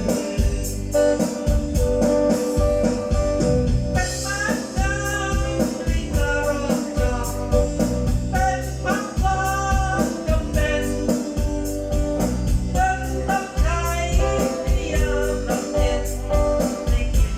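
A song with singing and guitar played through an outdoor PA system with subwoofer cabinets during a warm-up check, the bass pulsing in a steady beat.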